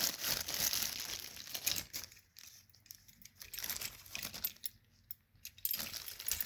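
Packaging crinkling and rustling as it is handled during unboxing: a continuous rustle for about two seconds, then a few shorter bouts with quiet gaps between.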